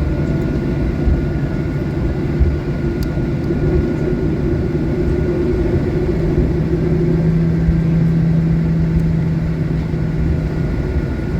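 Steady low rumble of a Boeing 737-800 airliner cabin, from its engines and air systems, heard before takeoff. A low hum strengthens for about four seconds in the second half, then eases. A faint steady whine runs underneath.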